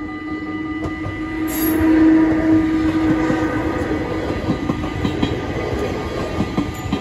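Dutch level-crossing bells ringing steadily as an NS ICM (Koploper) intercity train passes through the crossing. The train's rush builds to its loudest about two seconds in and is followed by rapid clicking of wheels over the rail joints.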